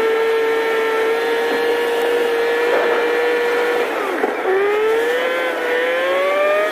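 Car engine running under load on a steep uphill climb, heard as a steady whine that dips briefly about four seconds in and then rises in pitch as the car picks up speed again.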